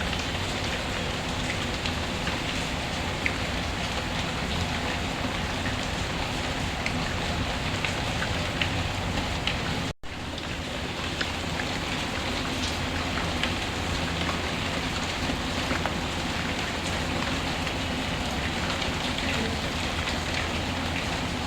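Steady rain mixed with a fireplace, scattered sharp crackles standing out over the even hiss of the rain. The sound drops out for an instant about halfway through, then resumes.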